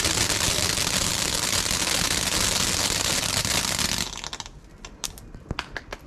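A firework hissing and crackling densely. About four seconds in it dies down to a scatter of separate sharp crackles and pops.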